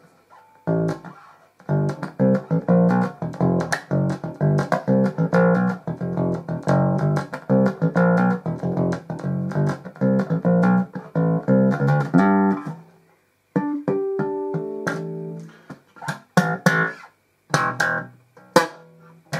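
Electric bass guitar played through a homebuilt mixer preamp's input channel. It plays a quick run of plucked notes for about twelve seconds, stops briefly, then gives a few held notes and some separate plucks. The channel passes the bass cleanly and sounds all right.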